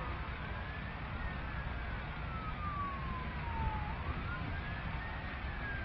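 Emergency vehicle siren in a slow wail, its pitch rising, falling for a few seconds, then rising and falling again, over a steady low rumble.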